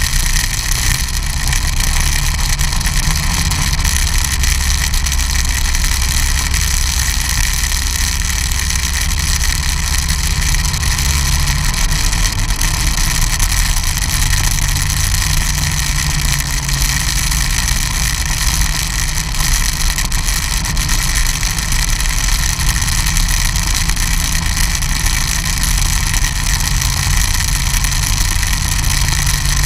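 Snowmobile engine running steadily, with its low end shifting a little about twelve seconds in.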